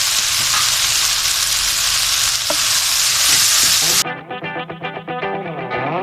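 Cabbage and capsicum sizzling loudly as they are stir-fried in hot oil. About four seconds in, the sizzle cuts off abruptly and background guitar music takes over.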